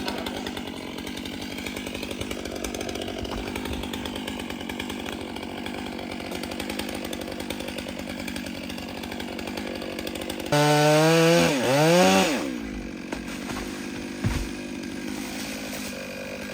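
Large two-stroke chainsaw, a Stihl 660, idling steadily. About ten seconds in it is revved hard for roughly two seconds, then its pitch drops as it falls back to idle.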